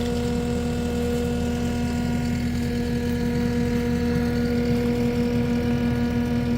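Engine idling steadily with an even hum; nothing in it rises or falls.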